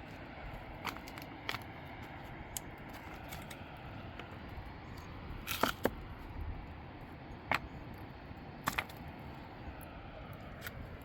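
Scattered sharp clicks and knocks, a few louder ones about the middle, over a steady background hiss.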